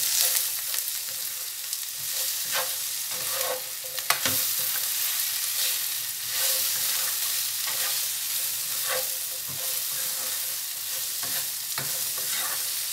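Cut okra frying in oil in a non-stick pan, a steady sizzle, while a spatula stirs and scrapes through it, with occasional sharp knocks of the spatula against the pan, the loudest about four seconds in.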